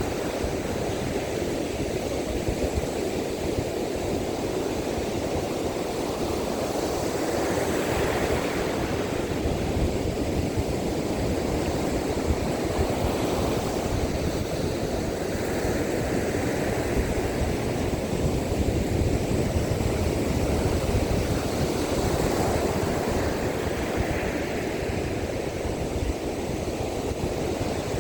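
Waves breaking and washing up a beach in strong wind, with wind buffeting the microphone as a steady low rumble. A wave's hiss swells up every several seconds.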